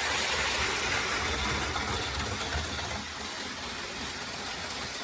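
OO gauge Class 395 model train running laps of the layout: a steady running noise from its motor and wheels on the track.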